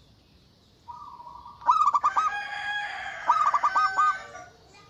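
Zebra dove (perkutut) cooing: a soft note about a second in, then two rapid runs of short repeated coos, with a longer crowing call, likely a rooster, sounding behind them.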